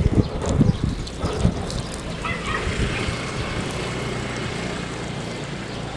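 Wind buffeting the microphone in uneven low rumbles for the first second and a half, then a steady low hum.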